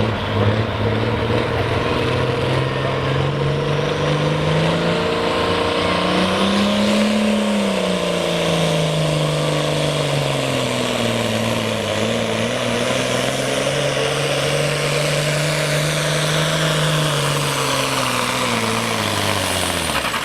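Pulling tractor's diesel engine running flat out under heavy load as it drags the weight sled. The engine note climbs about seven seconds in, sags and holds steady, then drops away near the end as the run finishes, with a high whine above it.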